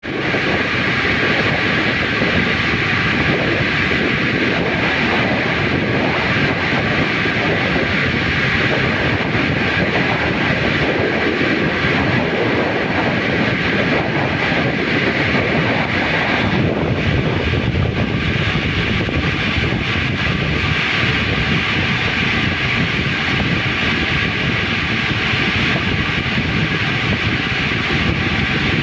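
Loud, steady mechanical drone of running machinery or engines, with a few steady whining tones over a rough rumble.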